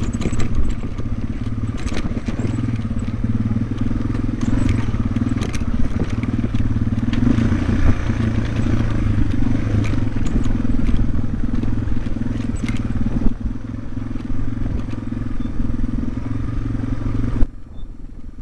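Yamaha TW200's single-cylinder four-stroke engine running steadily under way on a rocky dirt trail, with scattered clicks and knocks from stones and the bike's chassis. Near the end a sharp knock, and the sound drops to a quieter running.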